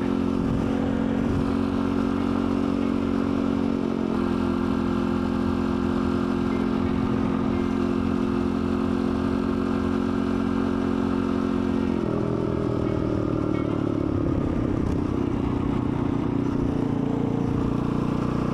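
Dirt bike engine running steadily while the bike is ridden. Its note shifts about four seconds in, then drops about twelve seconds in and sinks lower over the next few seconds.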